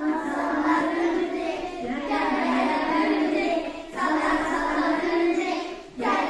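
Children's voices singing a children's song in Turkish, in phrases about two seconds long with held notes and short breaks between them.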